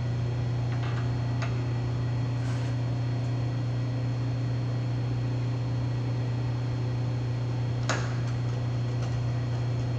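Steady low electric-motor hum from the shop's three-phase machinery, with a few faint light clicks early on and one sharper metallic click about eight seconds in from handling the mill's taper tool.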